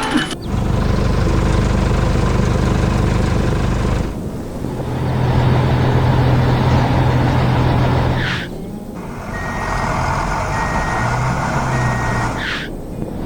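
Heavy construction-vehicle engine running in steady sections, with a reversing beeper sounding a run of short evenly spaced beeps partway through. Brief rising whooshes mark the breaks between sections.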